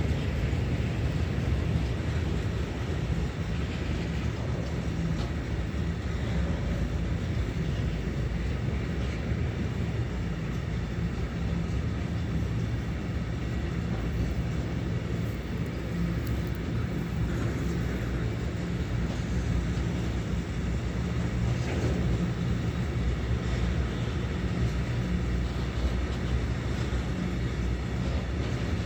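Train running past on the track, a steady low rumble.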